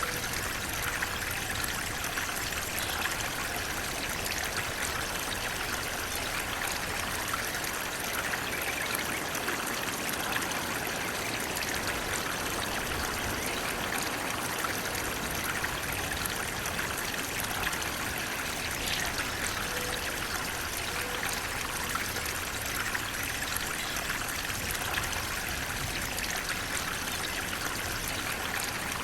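Flowing water babbling and trickling in a steady, unbroken rush.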